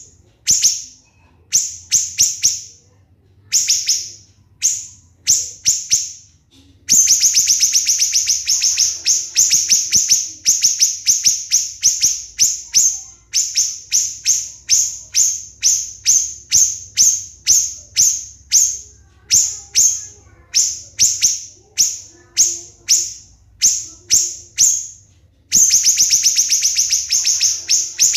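Siri-siri bird calling: a long run of sharp, high-pitched piercing notes repeated a few times a second, the quick 'shots' prized as master song for training songbirds. About a quarter of the way in, and again near the end, the notes run together into a very fast, dense trill.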